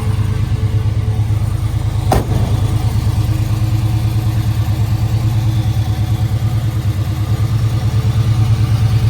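1967 Chevrolet Camaro's V8 engine idling through its dual exhaust with an even, rapid pulse, still warming up after a cold start. A single sharp click sounds about two seconds in.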